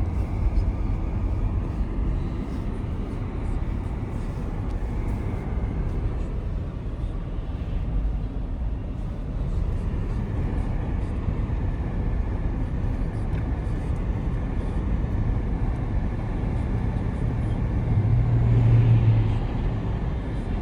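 Steady low rumble of a car driving, road and engine noise, with a louder low hum swelling briefly near the end.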